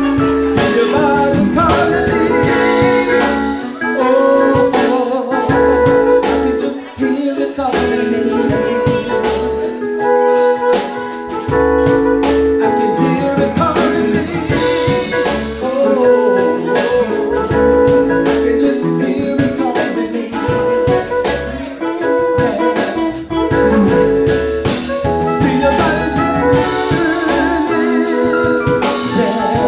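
Live band playing an R&B number with electric bass guitar and drum kit, and a male singer on a microphone.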